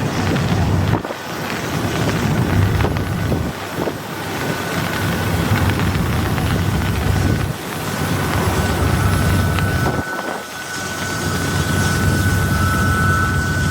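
Long, slow freight train rolling past, a steady low rumble that dips briefly every few seconds. A thin, steady high-pitched tone comes in about a third of the way through and grows louder toward the end.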